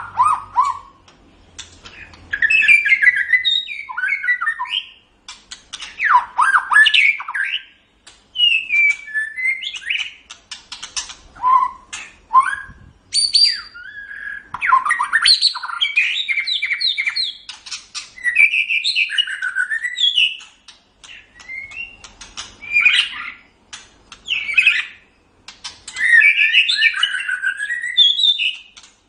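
White-rumped shama (murai batu) singing a loud, varied song. Bursts of a second or two of fast whistled glides, trills and harsh chattering notes come one after another, with brief pauses between them.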